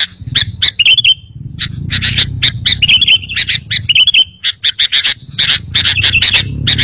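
Sooty-headed bulbul (kutilang) singing: a quick run of short, sharp chirps, several a second, some breaking into brief warbled notes, over a steady low hum.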